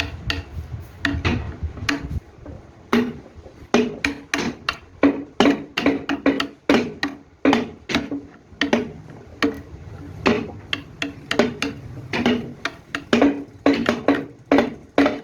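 A rapid, uneven series of sharp knocks, a few per second, each with a short low ring.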